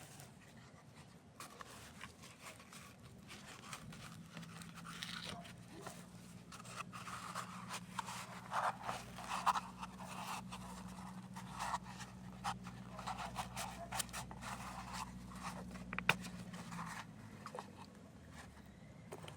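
Campfire crackling and popping with irregular sharp snaps. From a few seconds in until near the end, a low steady hum runs underneath.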